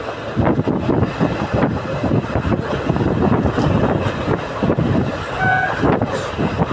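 Passenger train running, heard from inside the coach at the window: a dense rumble of wheels on rail with irregular knocks and wind buffeting the microphone. A brief high tone sounds about five and a half seconds in.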